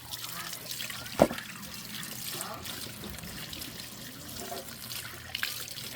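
Water running and trickling, with one sharp knock a little over a second in.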